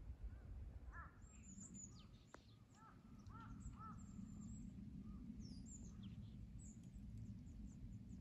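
Wild birds calling faintly: clusters of short arched call notes about one to four seconds in, with thin high-pitched chirps and squeaks scattered throughout, over a low steady background rumble.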